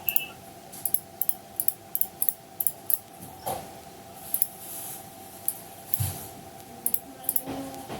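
Irregular short clicks and taps of a computer mouse and keyboard, a few per second, over a faint steady hum.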